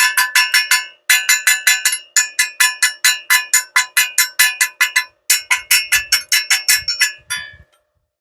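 Rapid metallic tapping: about five or six ringing strikes a second on the same piece of metal, in runs broken by short pauses, fading out near the end.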